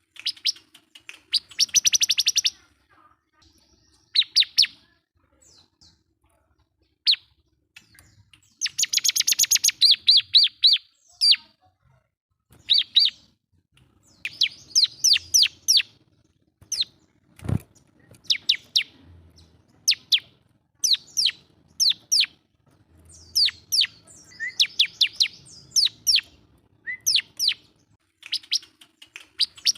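Bar-winged prinia (ciblek) singing hard, a rival-calling song of short bursts of rapid, high, sharp chirps and fast trills every second or two. A single sharp click about halfway through.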